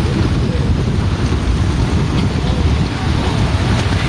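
Wind buffeting a phone microphone: a loud, steady rush of noise with a heavy low rumble, as in outdoor amateur footage.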